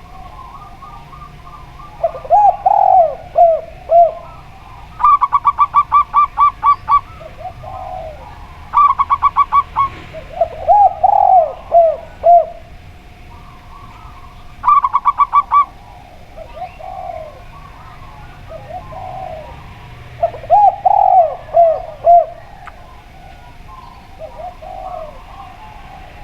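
Zebra dove and spotted dove cooing in turns: the spotted dove gives three low, arching multi-note coo phrases, and between them the zebra dove gives three fast runs of higher, clipped notes. Faint chirping of other birds runs underneath.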